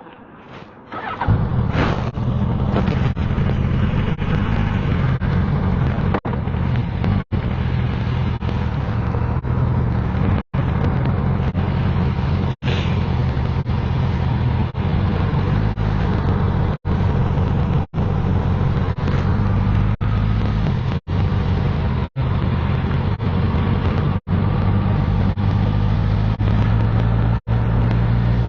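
Suzuki GSX-S1000GT's inline-four engine running steadily as the motorcycle rides along, coming in about a second in. The sound cuts out for a split second about nine times, dropouts from the hit-and-miss wifi link between the phone and the drone.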